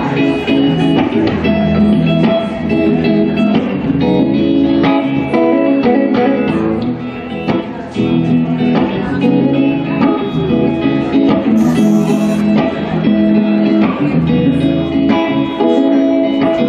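Guitar-led band music, an instrumental intro with a low bass line underneath, played live.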